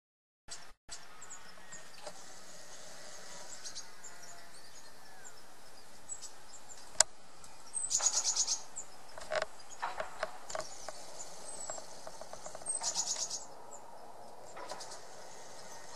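Small birds chirping, with two loud rapid high trills about eight seconds in and again about thirteen seconds in, over a steady background noise; a single sharp click about seven seconds in.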